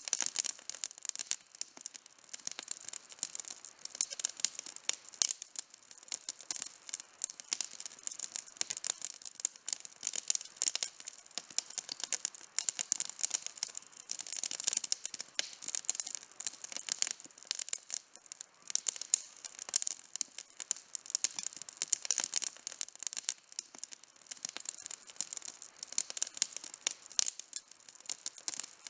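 Campfire burning with dense, irregular crackling and popping of the wood.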